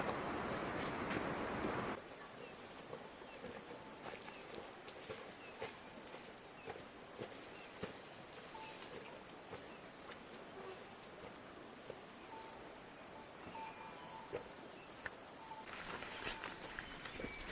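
Outdoor field ambience with a steady high-pitched insect drone and scattered light clicks and faint chirps. A louder rushing noise covers the first two seconds and cuts off abruptly.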